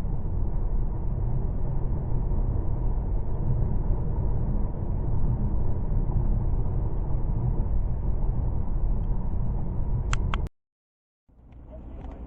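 Steady low road and engine rumble heard from inside a moving car. A couple of sharp clicks come about ten seconds in, then the sound cuts off abruptly into a moment of dead silence, followed by quieter, different background noise near the end.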